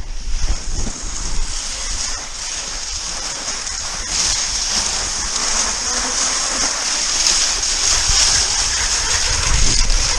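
Cross-country skis sliding over snow: a steady high hiss that grows a little louder from about four seconds in, with low rumble beneath.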